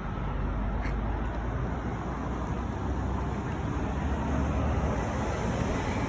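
Road traffic outdoors: a steady low rumble of passing vehicles that swells about four seconds in and eases toward the end.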